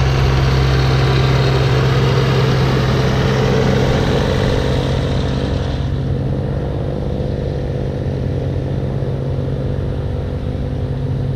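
Snowblower engine running steadily, with a rushing hiss over it that fades about halfway through.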